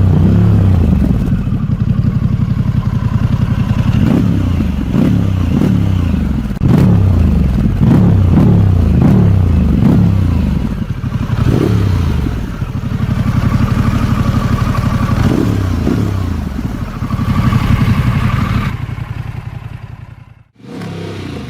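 Harley-Davidson Pan America 1250's liquid-cooled Revolution Max V-twin, fitted with an IXIL aftermarket exhaust, revved in repeated short blips, its pitch rising and falling. It cuts off suddenly near the end.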